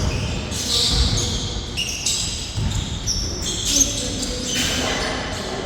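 Basketball bouncing on a court during a game, a few low thuds at uneven spacing.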